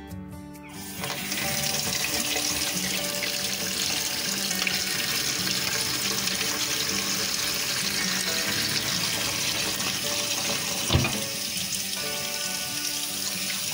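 Kitchen tap running cold water into a bowl of boiled salt mackerel in a stainless steel sink, a steady splashing hiss starting about a second in. A single sharp knock sounds near eleven seconds in.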